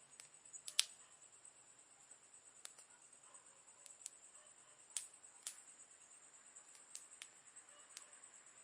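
Campfire crackling faintly: sparse, sharp pops from burning wood, the loudest a little under a second in, with a steady high-pitched drone behind them.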